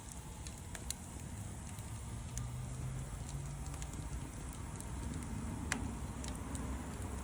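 Wood fire crackling, with scattered sharp pops over a steady low rumble, one pop sharper than the rest near the end.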